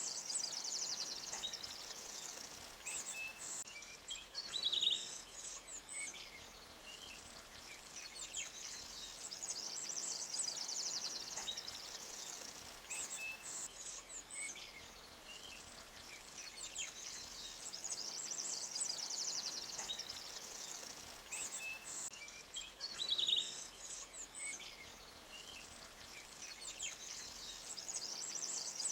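Forest ambience: songbirds chirping and trilling over a faint steady rush of water. A long high trill comes back every nine seconds or so, and a sharp chirp sounds about five seconds in and again later.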